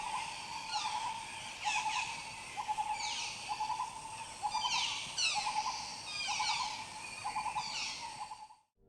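Birds calling in a natural soundscape: quick downward-sweeping high calls repeat about once a second over a lower, pulsing trill, fading out near the end.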